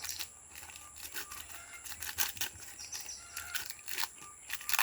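Irregular crinkling and light clicks as fuel is handled at a bee smoker, with no steady sound beneath.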